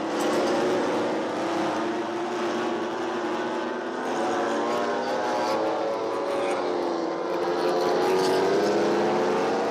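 MotoGP racing motorcycles running at high revs on the circuit, several engines heard at once, their pitch rising and falling as they accelerate, brake and shift.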